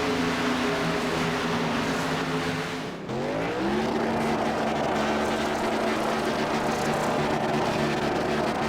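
Racing truck engine running steadily at high revs. About three seconds in it briefly drops off, then climbs quickly in pitch and holds a steady note again.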